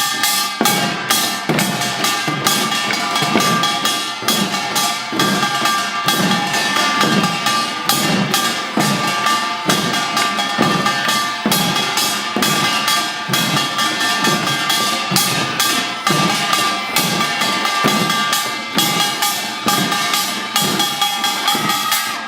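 Children's samulnori ensemble playing Korean percussion: rapid, steady drum strokes on janggu and buk under the ringing clang of kkwaenggwari and jing gongs.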